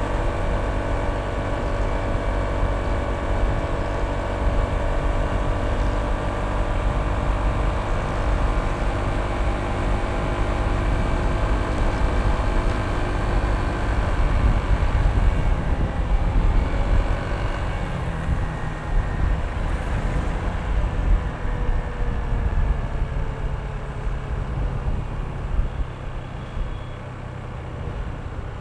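Honda ADV160 scooter's single-cylinder engine running steadily under way, with wind rushing over the microphone. The engine's pitched note drifts slowly and weakens about two-thirds of the way in, leaving mostly low rumble and wind.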